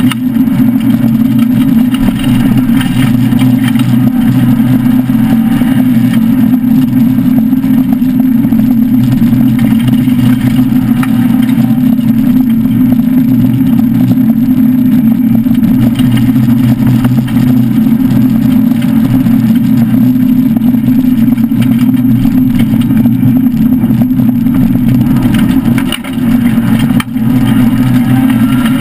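Citroën SM's Maserati V6 engine running hard under load, heard loud from inside the cabin, with a steady, continuous drone. Two brief drops in level come near the end.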